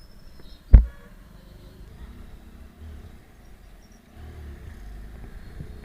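Motorcycle riding sound picked up by a bike-mounted camera: a low engine and road rumble that grows louder about four seconds in, with one sharp, loud thump a little under a second in.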